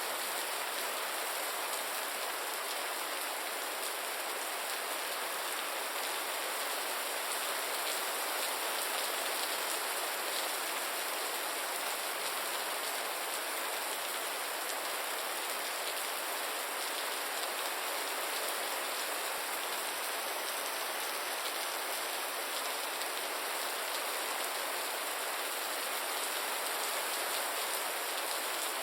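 Steady gentle rain falling: an even hiss of many drops that holds constant throughout.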